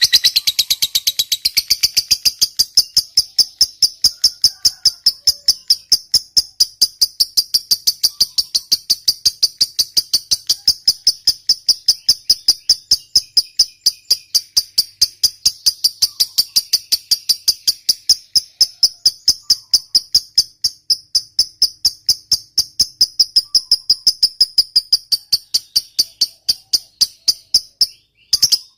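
Lovebird giving a long 'ngekek' chatter: a fast, unbroken run of shrill repeated notes, about five or six a second, kept up for nearly half a minute before it stops near the end.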